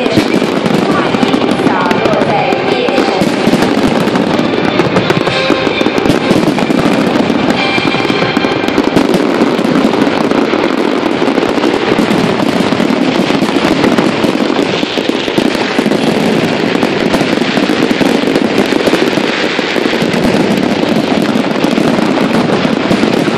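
Fireworks display going off in a dense, continuous barrage of bangs and crackling, with music and voices faintly underneath.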